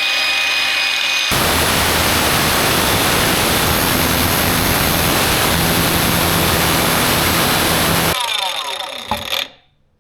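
Grinder with a cut-off disc spinning up, then cutting into the rusted steel exhaust pipe for about seven seconds, and winding down with a falling whine near the end.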